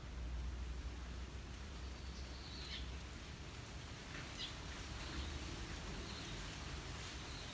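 Gentle wind blowing through trees, with a steady low rumble, and a few short, high wild-bird chirps scattered through it.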